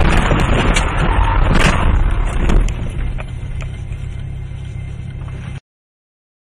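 Car road and engine rumble in a dashcam recording, with several sharp knocks in the first two and a half seconds, then a quieter rumble that cuts off abruptly near the end.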